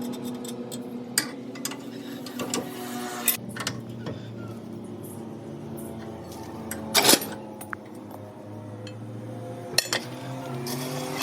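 Metal parts clinking and knocking against each other in separate sharp strikes, the loudest a quick cluster about two-thirds of the way through, over a steady low hum.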